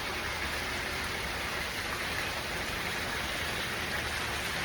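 Heavy, steady rain coming down straight, an even, unchanging wash of sound.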